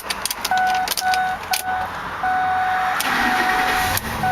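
A car's warning chime beeping repeatedly in short on-off tones, with a few clicks and rattles in the first second and a half.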